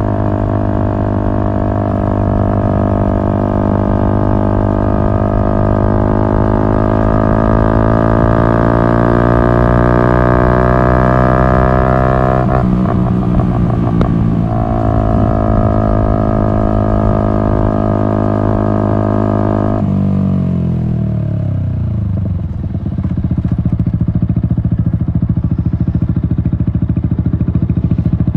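Yamaha MT-125's single-cylinder engine through an Akrapovic exhaust, rising slowly through the revs under way, with a short dip about halfway as it changes gear. It holds steady, then drops off quickly about two-thirds through as the throttle closes, and settles to a low, steady beat.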